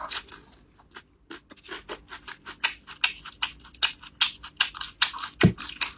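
Close-miked chewing of a crunchy lotus root slice: many short, crisp crunches starting about a second in, mixed later with the wet tearing of a braised pork elbow pulled apart by gloved hands. A single low thump comes near the end.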